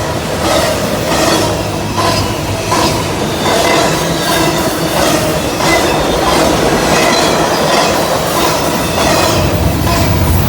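Intermodal freight train's cars rolling past: a steady rumble with the wheels clacking over rail joints at irregular intervals.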